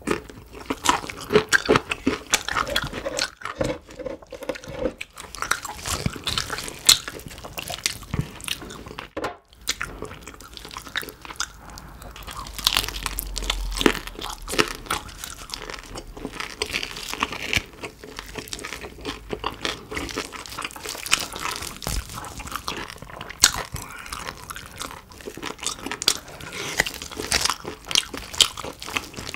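Close-miked eating of roast pork ribs and pork knuckle: irregular crunchy bites and chewing, many small crackles in quick succession.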